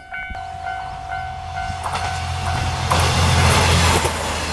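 Japanese level-crossing bell clanging about twice a second while a single-car JR Yosan Line train approaches and passes. The train's low rumble and rushing rail noise build up and are loudest about three seconds in, drowning out the bell.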